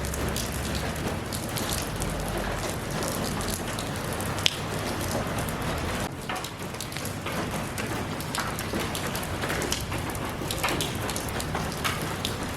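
Steady rain falling, with many separate drops tapping close by and one sharp, louder tap about four and a half seconds in.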